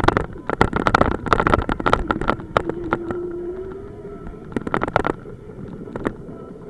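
Police motorcycle engine running, its pitch holding steady for a stretch, under many sharp knocks and clatter on the bike-mounted camera's microphone.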